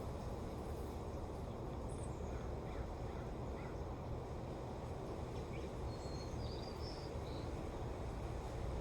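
Steady wind blowing with a low rumble, with a few faint bird chirps, one about two seconds in and a short cluster about six to seven seconds in.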